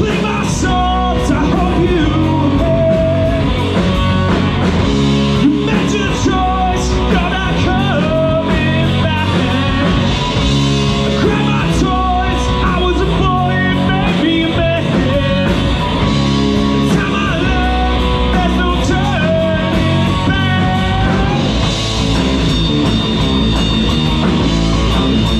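Live rock band playing at full volume: a singer over electric guitar, bass and drums.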